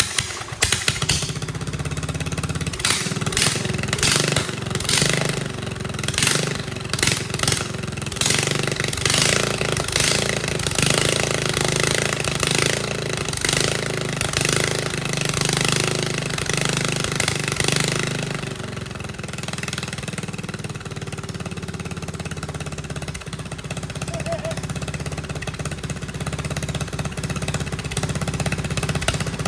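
Engine on a test stand running just after starting, unsteady with uneven pulsing in speed at first, then settling into a steadier, slightly quieter run about two-thirds of the way in.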